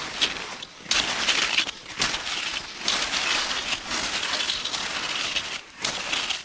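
Footsteps crunching through snow: a series of steps, roughly one a second.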